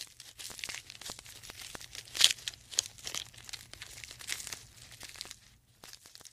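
Irregular crinkling and crunching: a dense run of small clicks and rustles, sharpest about two seconds in, over a faint low hum.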